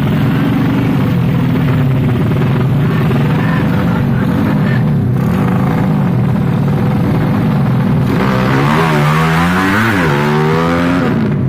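Race-tuned Yamaha Jupiter underbone motorcycles running hard at high revs. From about eight seconds in, the engine pitch sweeps up and down, with more than one engine note crossing.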